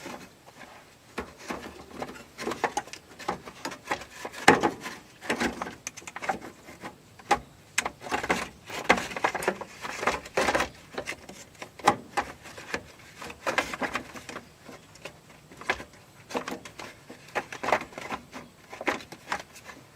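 Irregular knocking, clicking and scraping of a replacement air-conditioner cooling fan assembly being worked and twisted into position past the radiator.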